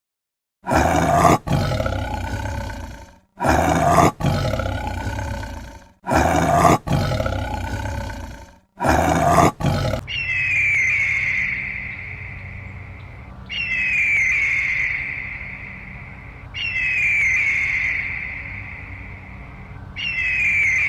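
A big cat roaring, four loud roars in a row, each trailing off over a couple of seconds. Then a bird's high call, gliding down in pitch, repeats four times about every three seconds.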